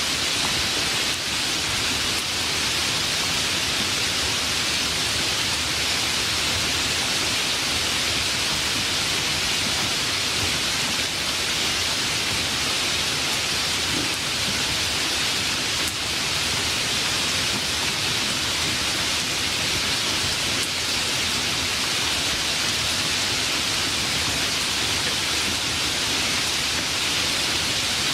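Steady heavy rain, an even hiss that holds at the same level throughout.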